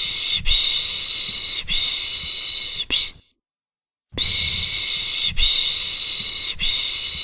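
Rhythmic shushing ('pış pış') to soothe a baby: a series of long 'shhh' hisses about a second each, ending in a short one, then a pause of about a second before the same pattern starts again.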